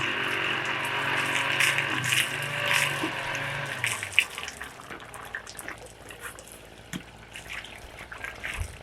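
Water running and splashing, with scattered small clicks and knocks. Background music with steady tones fades out about four seconds in.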